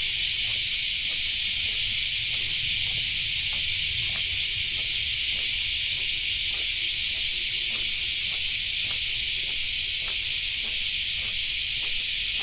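Steady, dense high-pitched chorus of insects, with faint footsteps of someone walking, about two steps a second.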